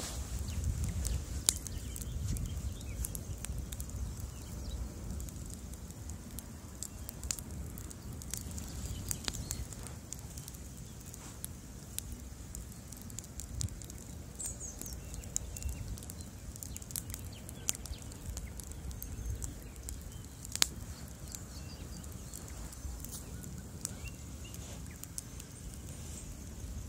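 Bonfire crackling: a steady low rumble of burning with frequent small snaps and an occasional louder pop.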